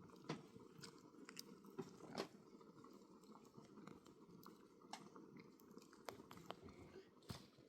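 Near silence with faint, irregular crunching clicks, like chewing.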